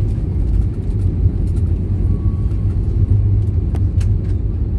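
Steady low rumble inside the passenger cabin of an Airbus A321neo, with a few faint clicks.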